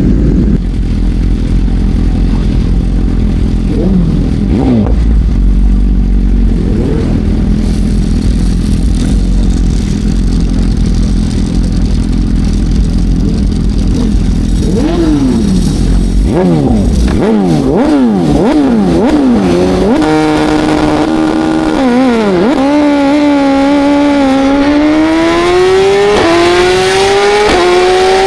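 Racing motorcycle engine blipping the throttle in quick rises and falls, then accelerating hard with its pitch climbing and dropping back at each of several upshifts.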